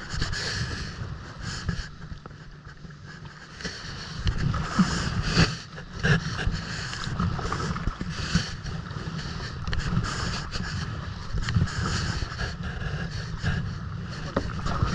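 Kayak paddle dipping and splashing every second or two, over steady wind rumble on the microphone.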